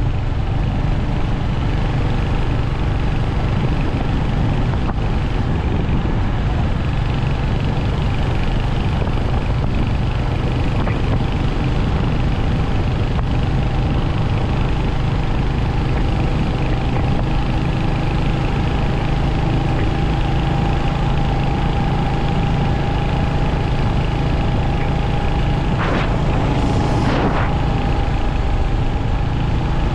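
Royal Enfield Hunter 350's single-cylinder engine running steadily under way, a constant low exhaust rumble with no gear changes or revving. Near the end, a brief rushing noise is heard twice over it.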